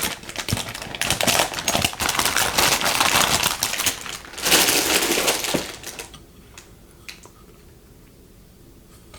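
Plastic packaging crinkling and clicking as it is handled, dense and loud for about six seconds. Then it goes quiet apart from a few faint clicks.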